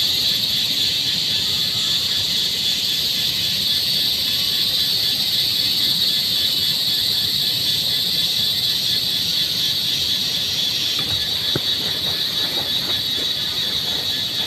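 Steady hiss of rain, with a few light knocks in the last few seconds.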